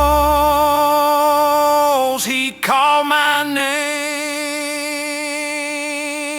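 Dark country song: a singer holds a long note with vibrato while the deep bass drops out about a second in. After a brief break about two and a half seconds in, a second long note slowly grows quieter.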